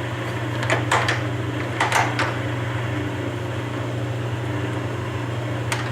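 Webb WL435 gap lathe running with a steady low hum from its motor and geared head. Several sharp clicks come in two clusters, about one and two seconds in, and one more comes near the end.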